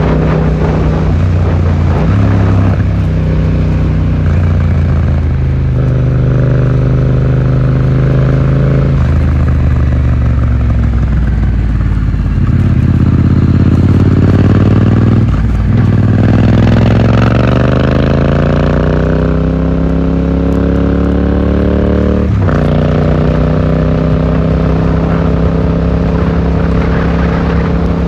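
Yamaha XSR700's parallel-twin engine through an Akrapovic exhaust, heard while riding, muffled from the rider's pocket. The engine pitch steps between gears in the first few seconds, climbs under acceleration around the middle, then drops away as the throttle is eased, with a sudden jump in pitch about two-thirds through, as at a downshift.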